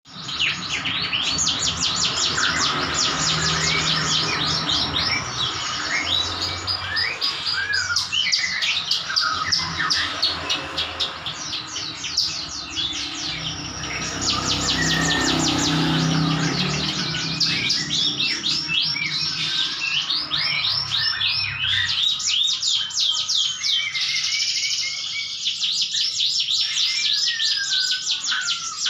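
Ciblek gunung, a prinia, singing in long, dense runs of rapid sweeping high chirps with hardly a break: the continuous 'brenn rapet' delivery kept as a tutor recording for training other songbirds. A faint low hum sits beneath it for most of the time.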